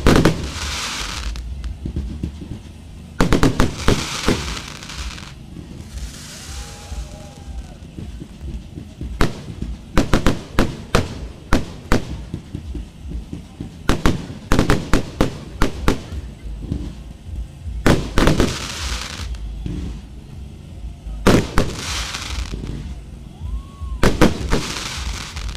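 Aerial fireworks going off: clusters of sharp bangs every few seconds, several of them followed by about a second of crackling as the shells burst.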